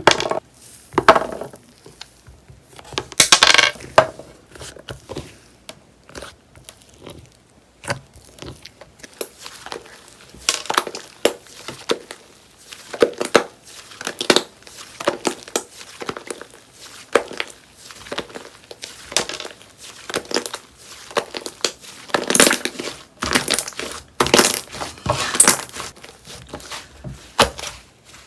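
Clay-mixed slime being squished, stretched and pressed by hand, giving irregular clusters of crackles, pops and crinkly tearing sounds.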